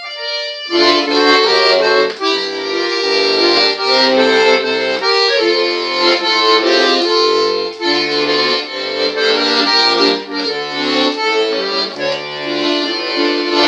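Accordion playing an instrumental break between sung verses: a melody over full chords with stepping bass notes, starting up again a moment in after a brief held chord.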